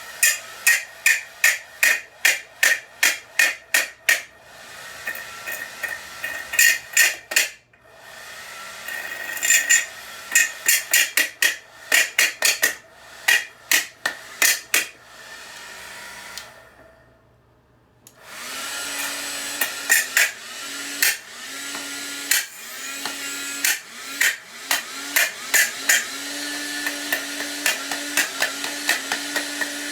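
Runs of rapid hammer blows on a hair dryer, about three or four strikes a second. After a short pause, the hair dryer runs with a steady blowing noise and a motor hum that keeps cutting out and coming back, with more knocks among it.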